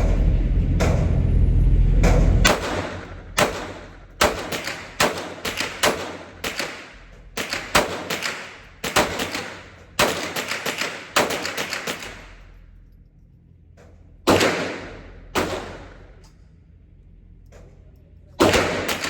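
Handgun shots at a shooting range: a string of sharp reports about two a second for some ten seconds, then a pause and a few single shots. A low steady rumble fills the first couple of seconds before the shooting starts.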